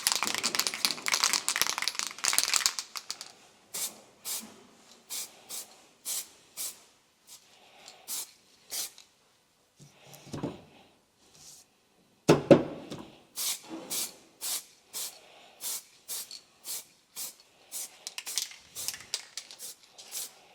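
Aerosol can of heat-resistant paint spraying a light mist coat onto a brake caliper: one steady spray of about three seconds, then a long series of short puffs. A single loud clunk comes about twelve seconds in.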